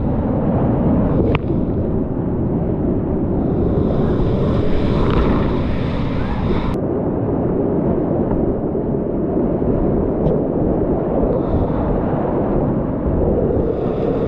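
Steady rushing of a whitewater river, mixed with wind noise on the microphone, with a couple of faint clicks.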